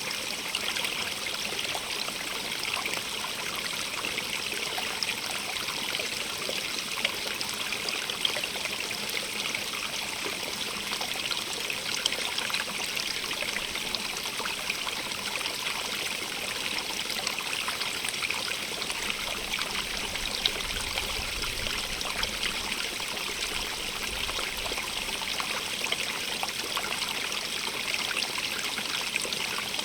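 Small stream running and trickling over rocks: a steady, even rush of water with little splashes.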